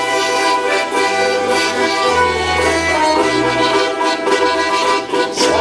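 Orchestra of Russian folk instruments playing the instrumental introduction to a song, with sustained accordion-like chords over bass notes that change about once a second.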